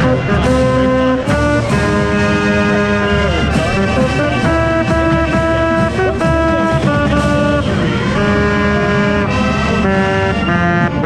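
Marching band playing loudly up close, brass and saxophones holding full sustained chords that change every second or so, with sharp drum hits now and then.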